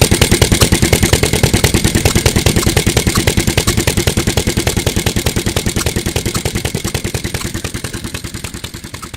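1955 Mitsubishi Katsura Type J1 single-cylinder stationary oil engine running steadily, an even exhaust beat of about ten strokes a second with mechanical clatter. The sound gradually fades away.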